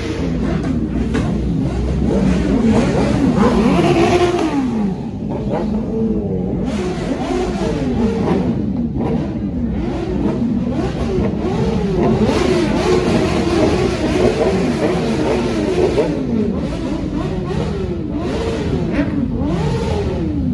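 Several motorcycle engines revving over and over, their pitches rising and falling and overlapping, over a steady rumble of running engines.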